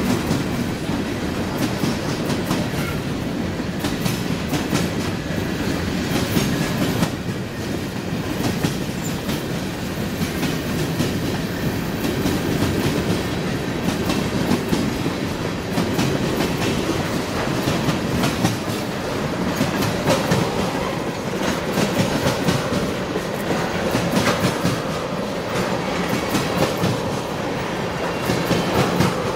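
Freight train of tank cars rolling past: a steady rumble of steel wheels on the rails with irregular clickety-clack as the trucks pass over rail joints.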